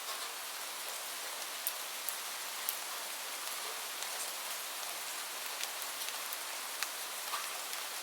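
Steady rain hiss, with a few scattered sharp pops from a crackling wood fire.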